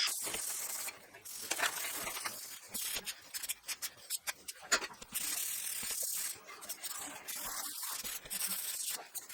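Irregular rubbing and scraping of an abrasive pad scrubbed by hand over steel, with scattered small knocks of the metal parts being handled.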